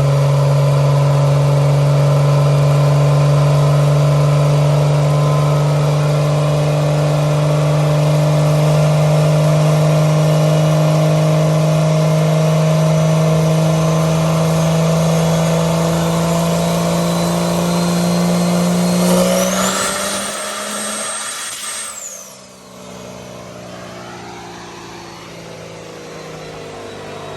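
Truck engine running hard, its pitch climbing slowly and steadily for about twenty seconds. Then a high whistle rises sharply, the engine cuts back and the sound drops to a lower, quieter running.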